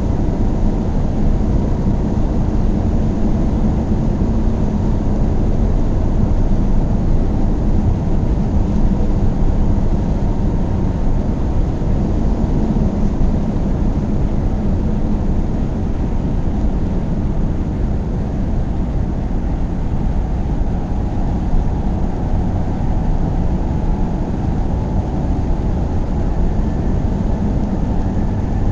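Car driving at a steady speed: a constant low rumble of engine and tyre noise on the road.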